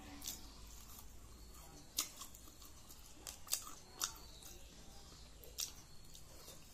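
A person chewing with the mouth close to the microphone: a half dozen sharp, wet lip-smacks and mouth clicks at irregular intervals over a faint low hum.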